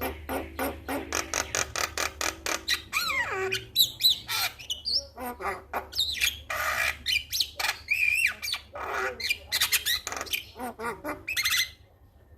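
Male Javan myna singing: a fast, harsh run of clicks and chattering squawks mixed with whistled glides that sweep up and down, breaking off shortly before the end. A steady low hum lies underneath.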